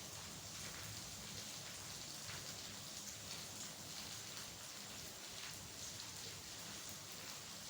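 Steady rain falling, an even hiss with many small individual drops ticking on a surface.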